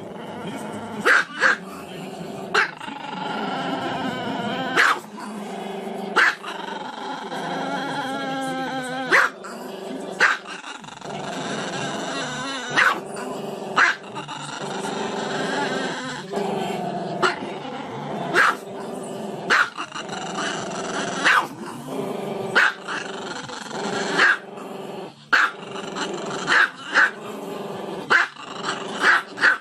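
Small black-and-tan Chihuahua barking in short sharp yaps every second or two, with long drawn-out, wavering calls in between, its muzzle raised.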